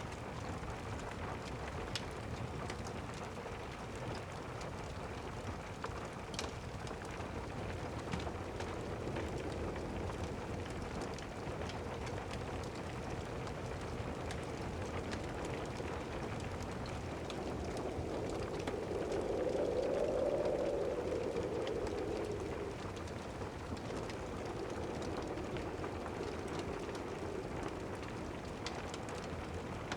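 Steady rain with scattered sharp crackles from a fireplace. About two-thirds through, a distant thunder rumble swells and fades over several seconds.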